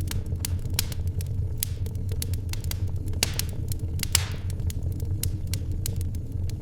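Wood fire in a fireplace crackling: irregular sharp pops and snaps over a steady low rumble, with one louder pop and a brief hiss about four seconds in.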